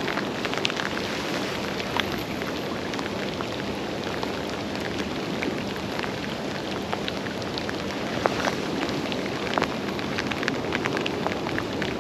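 Steady rain falling, a constant hiss with many scattered drop ticks.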